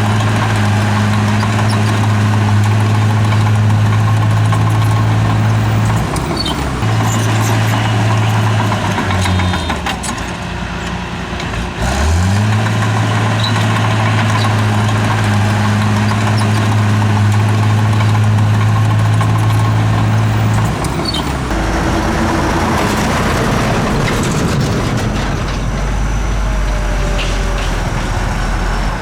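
Heavy diesel engine of earthmoving machinery running hard at a steady pitch. It dips and falls away a little before halfway, then revs back up and holds. In the last third it settles into a lower, rougher running.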